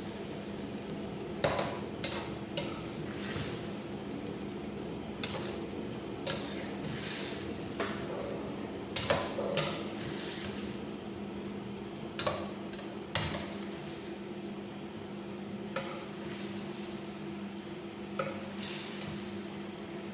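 A metal cooking utensil clinking and scraping against a pan at irregular intervals while the food is stirred, about a dozen ringing strikes. A steady low hum runs underneath.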